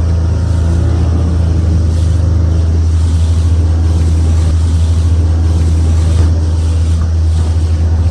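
Motorboat engine running at a steady speed: a deep, even hum with a haze of water and wind noise over it.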